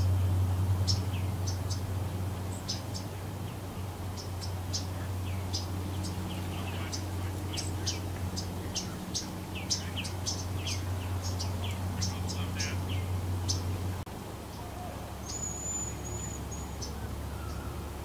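Songbirds chirping in quick, short high notes, with one held whistled note near the end. A steady low hum runs underneath and drops lower about two-thirds of the way through.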